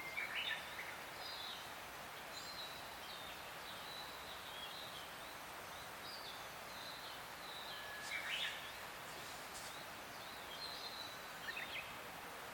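Birds calling and chirping over a steady outdoor background hiss, with a few short louder sounds about half a second in, around eight seconds in, and near the end.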